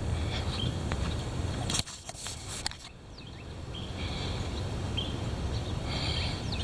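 Wind gusting against the microphone in a low rumble that dies away about two seconds in and builds back up, with birds chirping here and there.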